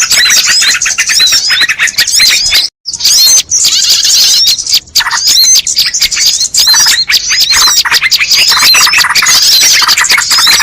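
A dense, loud chorus of many small birds chirping and twittering in rapid, overlapping calls: a recorded bird-lure (pikat) track meant to draw wild birds in. The sound cuts out completely for a moment just under three seconds in, and dips briefly again about five seconds in.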